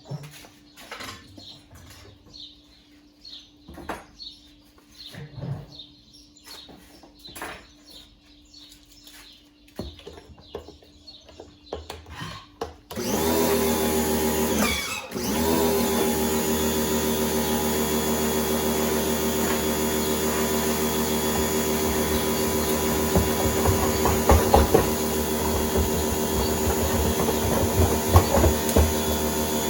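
Scattered light clicks and knocks of parts being handled, then about halfway through an electric motor-driven tool starts up. It stops briefly a couple of seconds later, then runs steadily with a loud, even whine.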